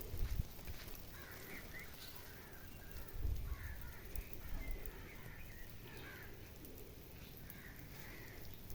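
Faint bird calls outdoors: scattered short chirps throughout, over a low rumble that swells briefly at the start and again about three seconds in.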